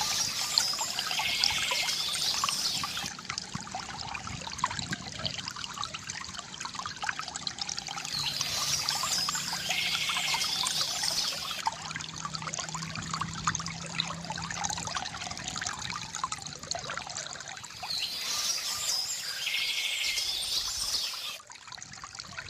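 Water steadily trickling and pouring from a bamboo fountain, with birds chirping in three spells about nine seconds apart.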